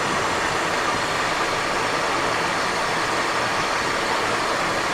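Steady rush of airflow and jet engine noise inside the cockpit of a Cessna Citation XLS on final approach, with gear and landing flaps down.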